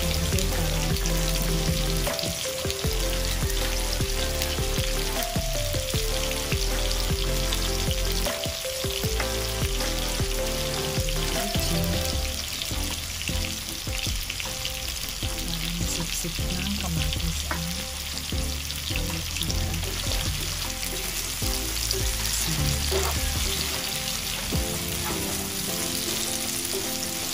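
Tomato wedges, onion and garlic sizzling in hot oil in a nonstick frying pan, with scrapes and taps as a plastic slotted spatula stirs them now and then. Background music with a bass line plays underneath.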